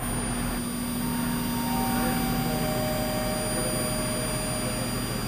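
A steady mechanical hum with a low held tone, joined by a few faint higher held tones partway through.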